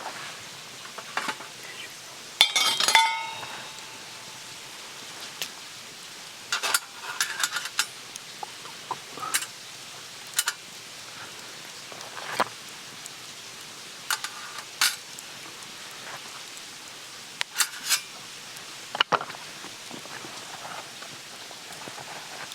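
Metal cooking utensils clinking and knocking against camp cookware, with a louder ringing metal clank about two and a half seconds in and scattered lighter clinks after, over a steady low hiss.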